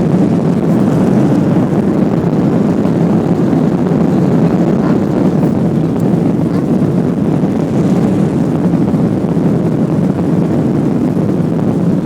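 Airplane taking off: a steady, even rumble of engine and rushing-air noise, strongest in the low range.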